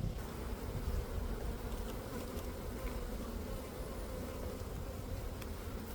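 Honey bees buzzing around an opened beehive during a brood-box inspection, a steady hum.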